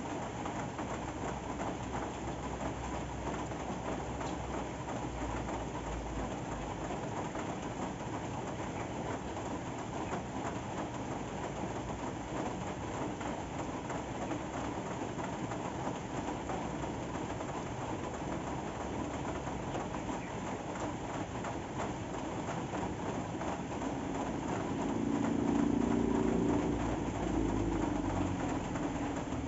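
Steady rain falling, an even dense patter. Near the end a louder low sound swells for a few seconds and fades.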